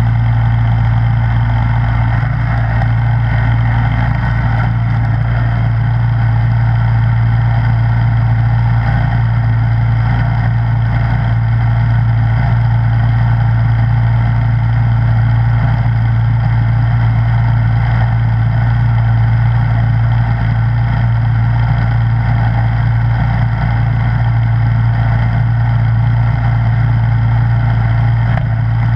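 Snowblower engine running at a steady speed, an even hum with no change in pitch or loudness.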